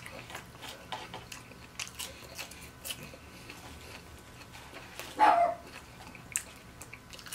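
Close-up chewing and mouth clicks of a man eating seasoned fries, with many small sharp smacks scattered throughout. About five seconds in comes one short, loud voice sound.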